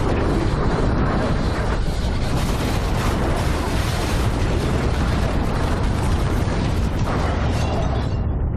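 Earthquake rumbling: a loud, continuous deep roar with a gritty, crashing texture that thins out and softens near the end.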